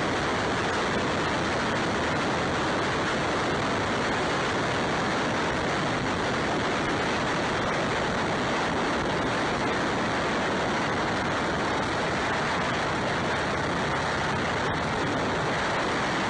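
Steady rushing wind and road noise from a motorcycle riding at speed, with wind buffeting the camera microphone and no clear engine note standing out.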